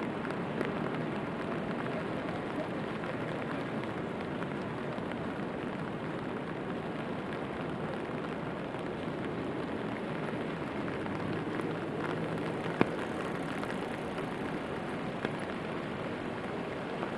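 Steady rainfall, an even hiss, with one sharp tap about three-quarters of the way through.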